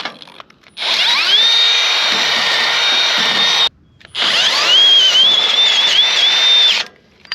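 Electric drill running twice, each time spinning up to a steady high whine, boring a hole for a light mount. On the second run the pitch dips and wavers as the bit bites.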